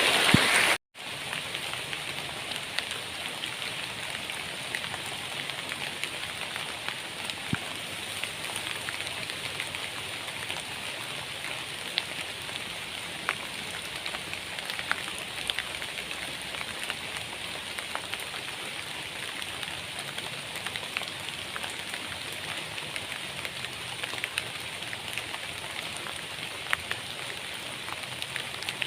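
Heavy rain falling steadily, with scattered ticks of individual drops hitting a surface. The sound cuts out briefly about a second in, then carries on slightly quieter.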